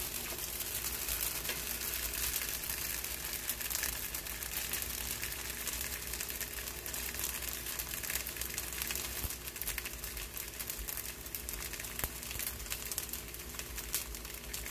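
Porottas frying in a little oil in a hot cast-iron skillet over a high flame: a steady crackling sizzle with a faint low hum beneath.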